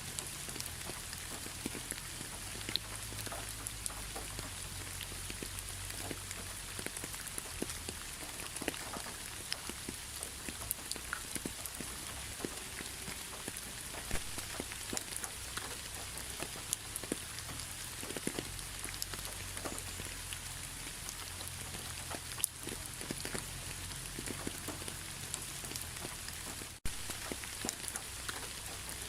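Steady rain falling on a surface: an even patter with many single drops ticking through it. The sound drops out for a split second near the end.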